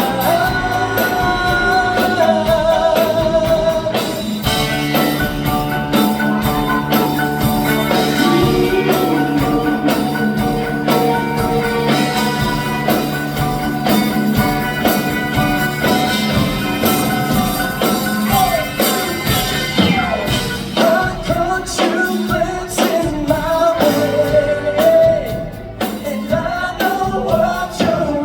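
Live band playing a soft-rock song, with a singer over the band.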